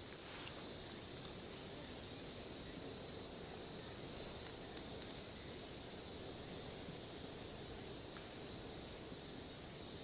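Insects calling in repeated high-pitched pulses that swell and fade every second or two, over a steady hiss.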